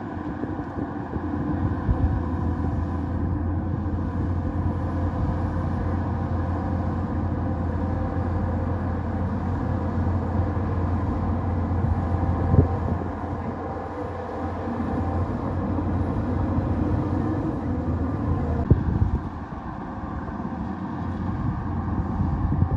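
Bulldozer engine running steadily, with a couple of sharp knocks along the way.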